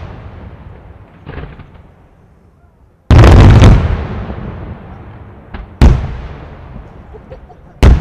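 Aerial firework shells bursting. There is a soft boom about a second in, then a heavy, long boom about three seconds in. Sharp bangs follow near six seconds and just before the end, each trailing off in a rumbling echo.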